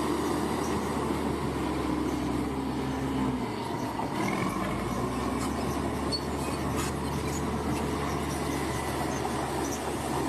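Crawler bulldozer's diesel engine running steadily under load, with its steel tracks squealing and clanking. The engine note dips briefly about three and a half seconds in.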